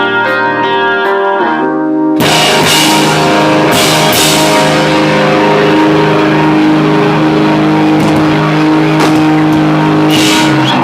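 Live rock band: a guitar chord rings out, then about two seconds in the drums and full band come in together on one long held chord with crashing cymbals, which cuts off suddenly at the end.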